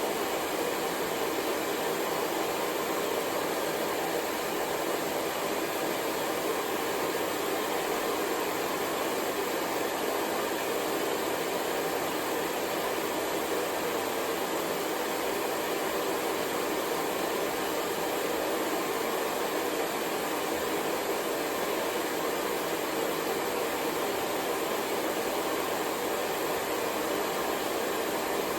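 Hair dryer blowing steadily, an even, unchanging whoosh used as white noise.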